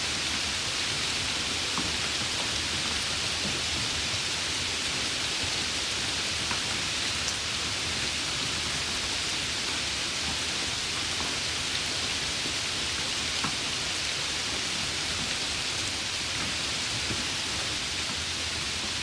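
Steady summer rain falling in an even hiss, with the odd single drop ticking through it.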